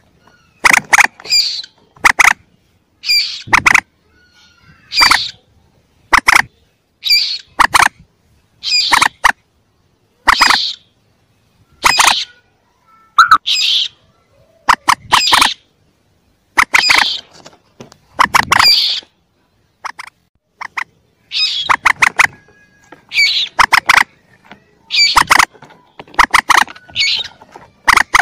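Recorded lure call of common moorhen chicks: short, sharp squawking calls repeated about once a second, some in quick pairs or triplets.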